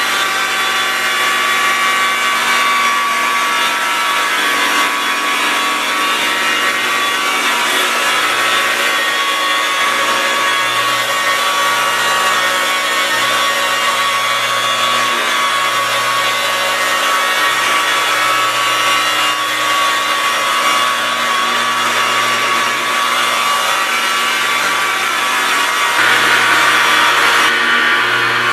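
Electric car polisher running steadily with a constant motor whine as its black foam pad works swirl mark remover compound over the paint. It gets louder near the end.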